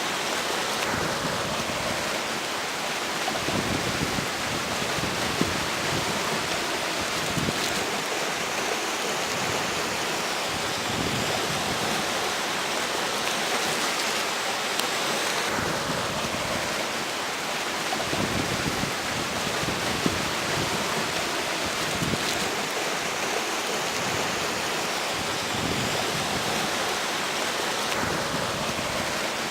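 A river flowing with a steady rush, mixed with strong gusts of wind that swell and fade irregularly.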